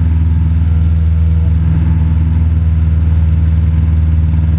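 Cessna 172 Skyhawk's piston engine and propeller droning steadily in level flight, heard from inside the cabin.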